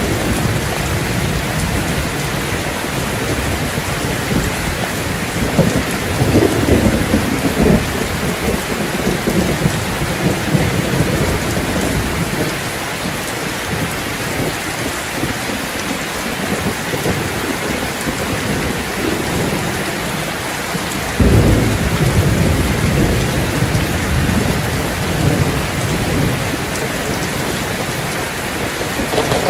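Steady rain with rolling thunder: a rumble swells about five seconds in, and a second, sudden one breaks about two-thirds of the way through and rolls on.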